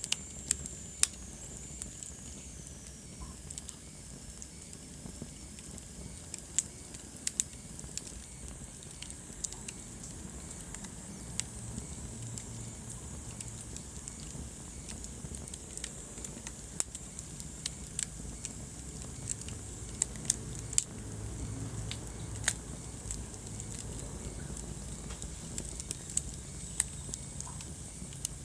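Wood fire burning in a fireplace: irregular sharp crackles and pops over a low steady rumble of flames, with a faint high whistle falling in pitch in the first few seconds.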